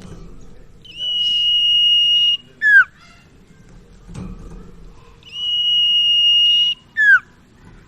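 Burung sirtu (cipaw) songbird singing its song twice: each time a long, steady high whistle held for about a second and a half, then a short sharply falling note.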